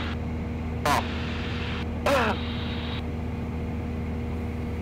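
Steady drone of the Cessna 172SP's four-cylinder Lycoming engine in flight, with two short snatches of voice about one and two seconds in.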